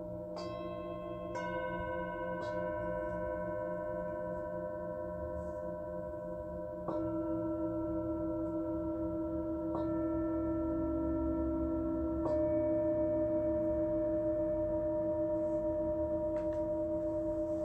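Singing bowls struck one after another every few seconds, each ringing on long with a slowly wavering tone and layering over the ones before.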